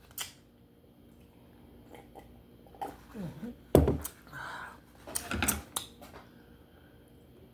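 Close-up eating sounds: chewing and mouth smacking on baked duck head, broken by a few sharp cracks and clicks, the loudest about four seconds in.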